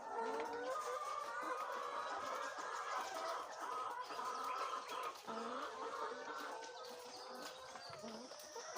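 A flock of chickens clucking and calling continuously, many overlapping short wavering calls.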